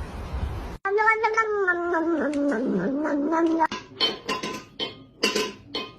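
A cat's long drawn-out yowl of about three seconds, wavering and sagging in pitch, followed by a few short knocks and clicks.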